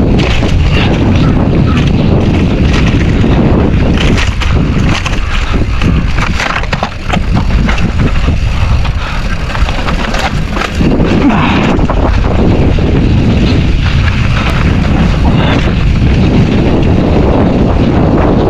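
Mountain bike riding down a rough dirt trail: wind buffeting the microphone over the rolling of the tyres, with the bike clattering and knocking over bumps. It eases briefly about seven seconds in.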